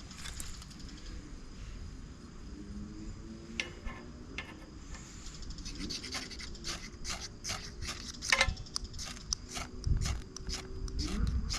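Ferrocerium fire-starter rod struck with a scraper, harsh rasping scrapes about three a second that start a few seconds in and speed up, throwing sparks at tinder that has not yet caught.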